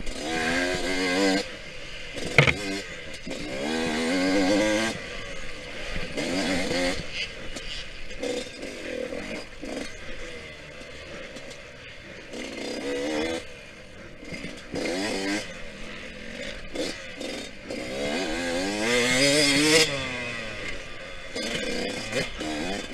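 Yamaha YZ125X two-stroke single-cylinder dirt bike engine being ridden hard, its revs climbing and dropping over and over as the throttle is worked, loudest near the end. A single sharp knock comes about two and a half seconds in.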